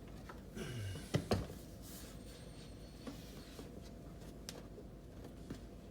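Quiet room tone with a few soft clicks and rubbing sounds, bunched in the first second and a half and scattered after.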